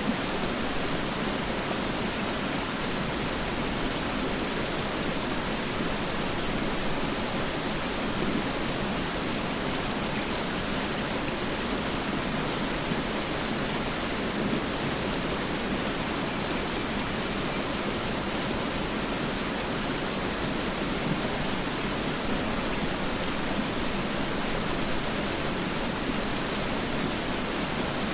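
Mountain river rushing steadily over rocks: an even, unbroken rush of water with no birds or other events.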